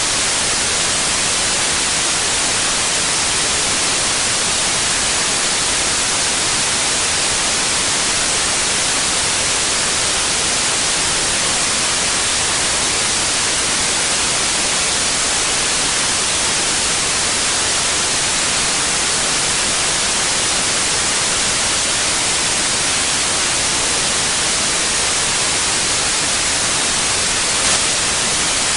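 Steady white noise, an even hiss with no change in level, brightest in the high frequencies. One faint click comes near the end.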